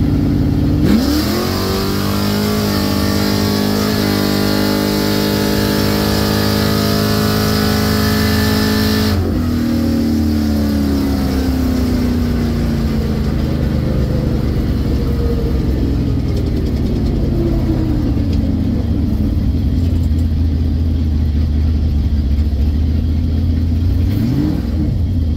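Drag car's engine heard from inside the cabin, idling on the line, then launching at full throttle about a second in and pulling hard for about eight seconds with a loud rush. At about nine seconds the throttle is lifted suddenly and the engine falls away to a lower drone as the car coasts down. There is one short rev near the end.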